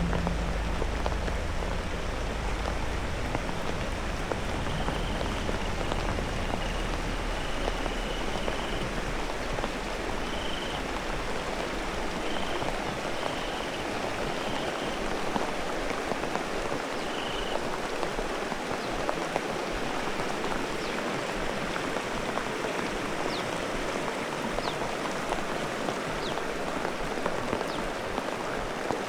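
Steady heavy rain pouring down, an even hiss throughout. A low rumble fades out over the first few seconds, and a run of short high chirps sounds through the middle.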